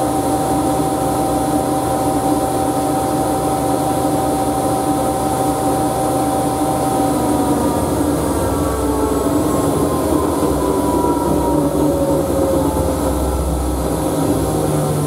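Siemens Siwamat washing machine running at speed, its motor and drum giving a steady whine over a rumble. About halfway through, the whine starts falling in pitch as the drum slows.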